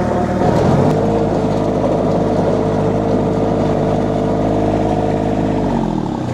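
An engine revs up about a second in, holds steady at the higher speed for several seconds, then drops back down to idle near the end.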